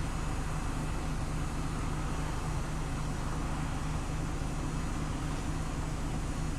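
Scania OmniLink CL94UB city bus running with a steady engine drone and road noise that holds even throughout.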